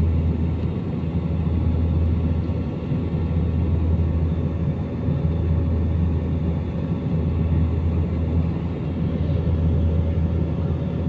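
Steady low drone of an airliner's passenger cabin: engine and airflow noise heard from inside the plane, with a faint steady hum above it.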